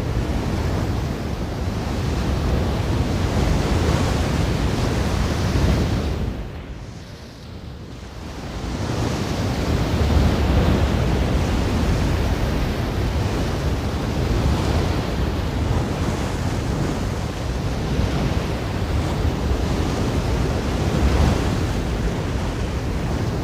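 Ocean surf: waves washing in as a steady rush with a low rumble, falling away for a couple of seconds about six seconds in, then swelling back.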